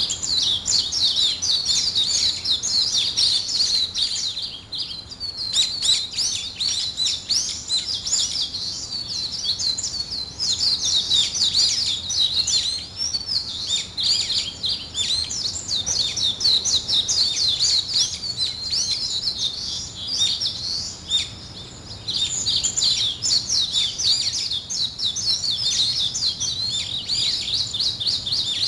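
Many small birds chirping and twittering together in a dense, continuous high chorus, with short lulls about 5 seconds in and again around 21 seconds.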